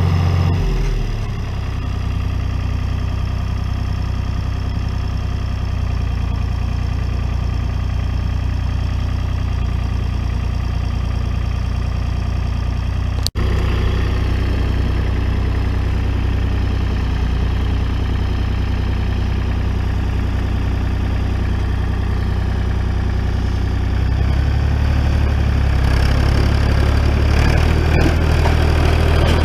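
Tractor engine running steadily at low revs, easing off slightly about a second in and picking up again about 24 seconds in. The sound cuts out for an instant near the middle.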